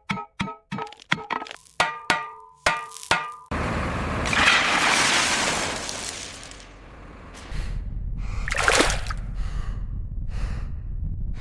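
A quick run of ringing metal clangs, about three a second, stops abruptly at a sudden rush of noise. The rush fades, and a low rumble takes over, with one loud noisy surge partway through.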